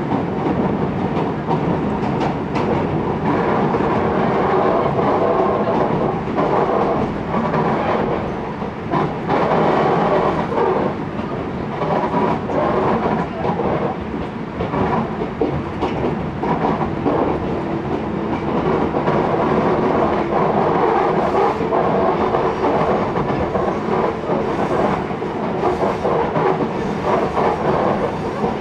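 Ex-Kintetsu 16000 series electric train running along the line, heard from inside the passenger cabin: a steady rumble of wheels on rail with scattered clacks as the wheels cross rail joints.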